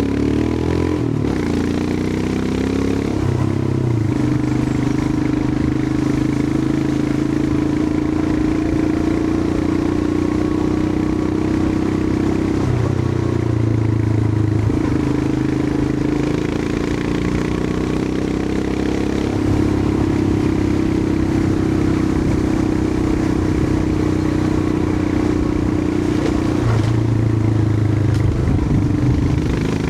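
Royal Enfield Himalayan 411's single-cylinder engine running as the motorcycle rides along, its note dipping and climbing again several times.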